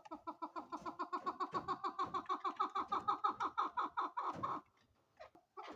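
Female chukar partridge calling: a fast, even run of short clucking notes, about nine a second, that breaks off about four and a half seconds in and starts again just before the end.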